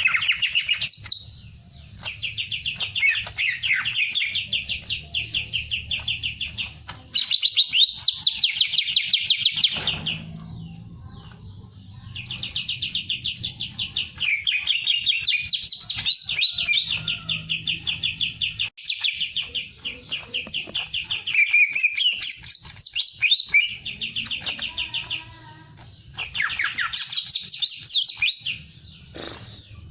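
A songbird singing long runs of rapid repeated chirps, each run lasting several seconds with short breaks between, some notes swooping up higher. A low hum sits under parts of the song.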